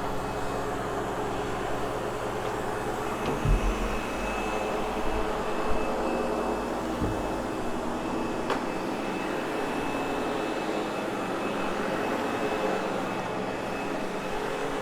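Sebo X8 upright vacuum cleaner running steadily over carpet: an even motor rush with a thin high whine, broken by a few brief knocks.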